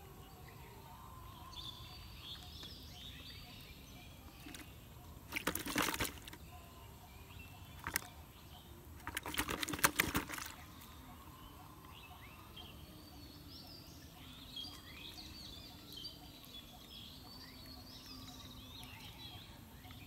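Small birds chirping and trilling over quiet rural outdoor ambience. Two short bursts of crackling rustle come about five and nine seconds in, the loudest sounds.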